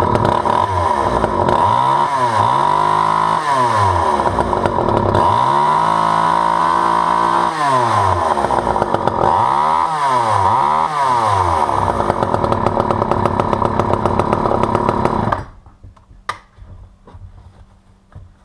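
Poulan 2000 two-stroke chainsaw running, revved up and down several times, then shut off suddenly about fifteen seconds in.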